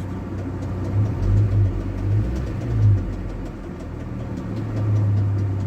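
A GAZ Gazelle's ZMZ-405 four-cylinder petrol engine idling, its hum swelling a few times, with a faint repeated knock over it. The knock comes and goes. A replacement upper timing-chain tensioner has not cured it, and the owner believes the cause is not the chain or tensioner.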